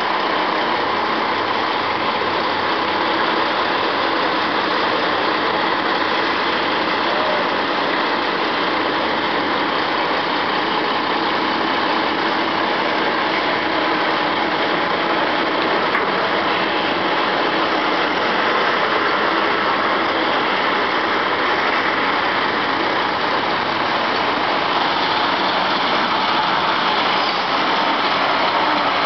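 Heavy truck engines running steadily at a construction site, an even, continuous noise.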